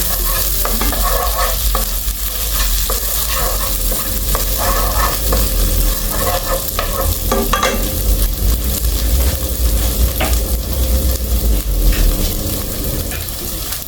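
Seasonings, green bell pepper and scotch bonnet sautéing in butter in a pot, sizzling steadily, with a spoon stirring and knocking against the pot. A steady low rumble runs underneath.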